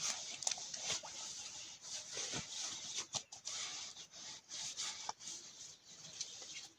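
Rustling with scattered light clicks and knocks as camping gear is handled.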